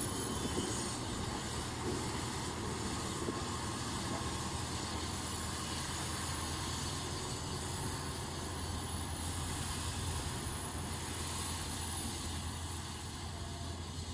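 A steady, low engine drone with a continuous hum, without sudden changes.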